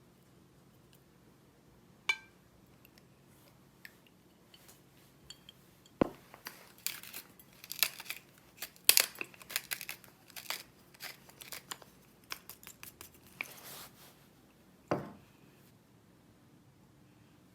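Handling of dishes and utensils: a single ringing clink about two seconds in, then a run of quick clicks, taps and short rustles, with a heavier knock at its start and another near the end.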